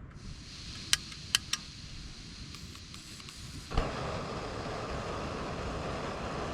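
A faint steady hiss with three sharp clicks about a second in, then a sudden, louder, steady rushing noise a little before four seconds in.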